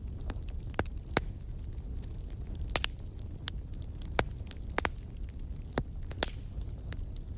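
Fire crackling in a fireplace: irregular sharp pops and snaps, about a dozen, over a steady low rumble of the flames.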